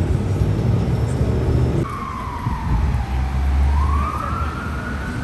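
Low rumble of street traffic, then about two seconds in a siren starts up: one clear tone that slides down and then climbs back up in a slow wail.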